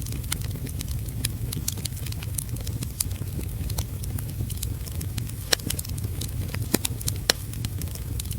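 Wood fire crackling in a fireplace: irregular sharp pops and snaps, a few louder ones in the second half, over a steady low rumble.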